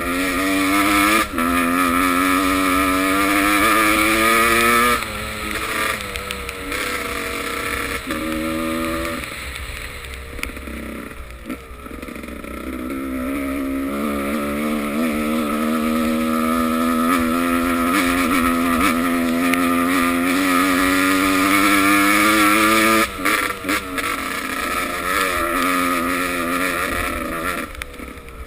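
Motocross motorcycle engines revving, pitch climbing and dropping with the throttle and gear changes. It eases off about five seconds in and builds back up to a long loud pull from about halfway, dropping away near the end.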